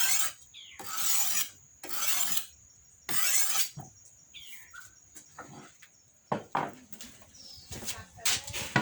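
Rasping, scraping strokes repeated about once a second, stopping about four seconds in. Then scattered light knocks and a short falling whistle.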